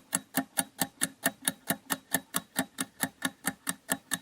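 Countdown-timer sound effect: a rapid, even clock-like ticking, about four or five ticks a second.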